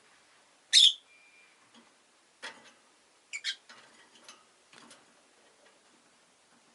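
Rosy-faced lovebird calling: one loud, sharp, high chirp about a second in, followed by a scatter of quieter short chirps and clicks.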